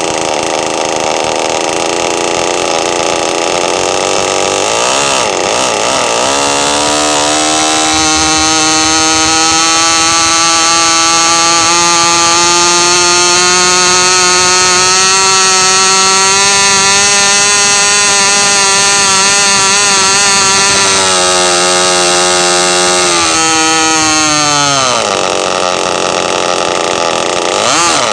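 MVVS 40 Quickee 500 6.5cc two-stroke model racing glow engine running on its open exhaust manifold, without its tuned pipe. It climbs to a high, steady whine several seconds in, holds there, then winds down near the end; it has not been tuned for maximum rpm.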